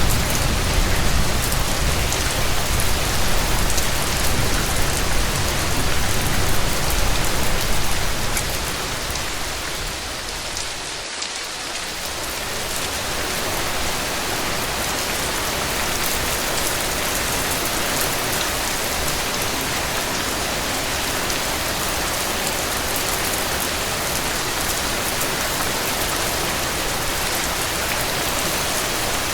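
Heavy rain falling steadily, a dense, even hiss. A low rumble under it fades out about eight seconds in, and the rain briefly dips around eleven seconds before running on evenly.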